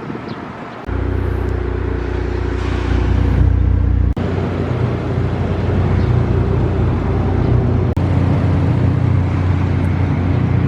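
A car engine running at a steady idle, a low even hum that starts abruptly about a second in, with two brief dropouts.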